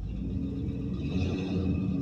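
The original 305 small-block V8 of a 1985 Chevrolet C10 idling steadily at normal idle, warming up after a cold start.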